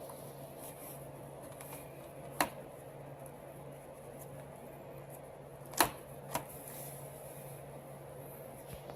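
Three sharp clicks of hard parts or tools being handled during work on a copier fuser unit: one about two and a half seconds in, then two about half a second apart near six seconds, over a steady low hum.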